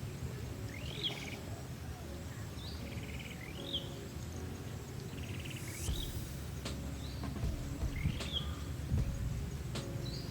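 A bird giving short upward-sweeping chirps, about six of them, spaced a second or two apart, mixed with a few buzzy rattling calls, over a steady low rumble of outdoor background noise.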